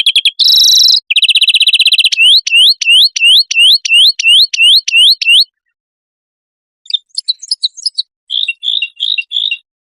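Recorded songbird song from a cage-bird training compilation: a rapid high trill, then a run of clear upward-sweeping whistled notes about three a second. After a pause of about a second, a burst of chattering notes and four short buzzy notes near the end.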